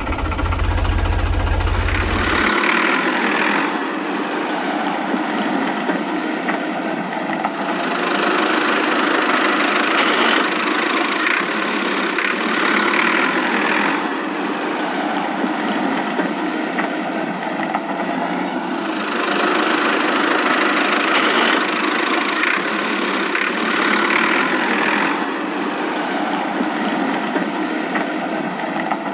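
A small motor running steadily, its sound swelling and easing every few seconds.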